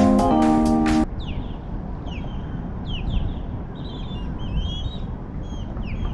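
Music ends abruptly about a second in, then wild birds call repeatedly: short, high, downward-sliding calls with a stretch of chattering partway through, over a low steady background noise.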